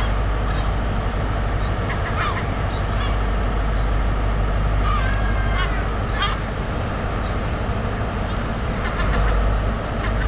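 Gull calling over and over: short calls that slide down in pitch, about one a second, over a steady low rumble.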